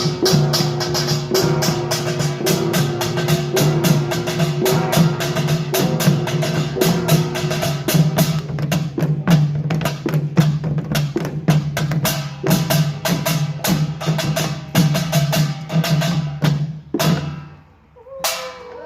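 Pungmul percussion ensemble playing fast and loud: rapid clattering strokes of small gongs and drums over a steady ringing tone. Near the end it drops off for about a second, then starts up again.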